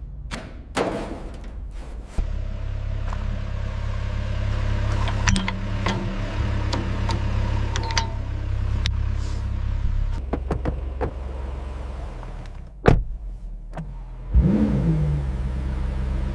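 A car engine running with a steady low hum, with scattered clicks and a single sharp thud like a car door shutting. Near the end the engine picks up with a brief rising rev and keeps running.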